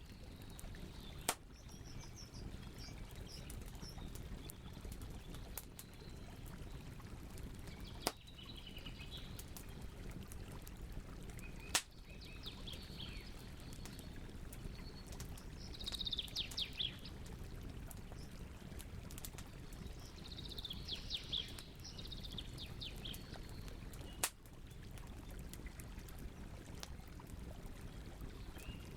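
Campfire burning with a steady low rush, small crackles and a few sharp pops, while songbirds chirp over it in short calls and quick trills, the trills strongest midway and about two-thirds of the way through.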